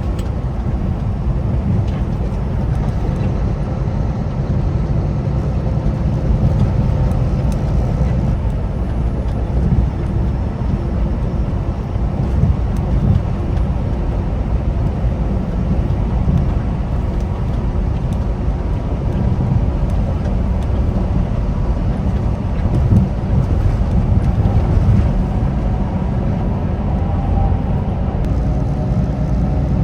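Semi-truck cab at highway speed: a steady low rumble of engine and road noise with no change in pace.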